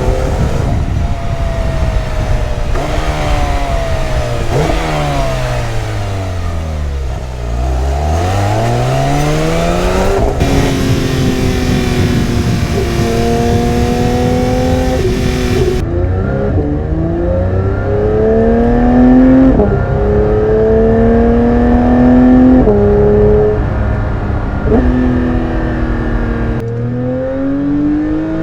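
Porsche 992 GT3's naturally aspirated flat-six under hard driving: the engine note falls and then climbs again about a third of the way in, then rises repeatedly with a sudden drop in pitch at each upshift.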